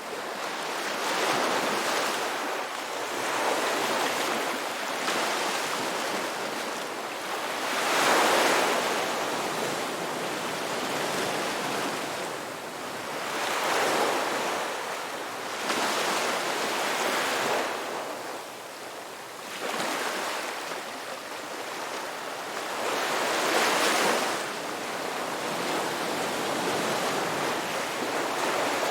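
Ocean waves breaking and washing on the shore, the surf swelling and easing every few seconds, with a larger wave breaking about eight seconds in and again near the end.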